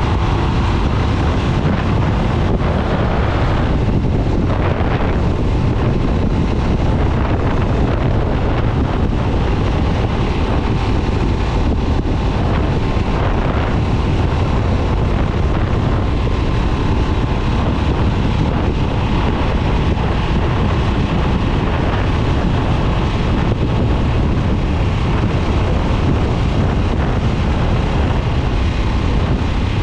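2022 Harley-Davidson Nightster's liquid-cooled Revolution Max 975T V-twin running steadily at cruise with no revving, over wind buffeting the microphone.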